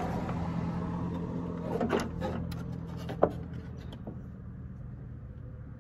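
Short clicks and knocks of plastic tail-light parts and clips being handled, with one sharp click about three seconds in, over a steady low hum.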